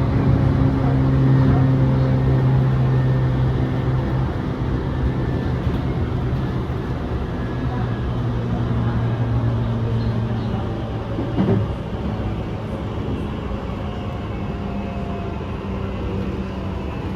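Running noise inside an electric commuter train: a steady rumble of wheels on rail with a low motor hum that drops slightly in pitch about four seconds in and fades later. A single knock comes about eleven seconds in.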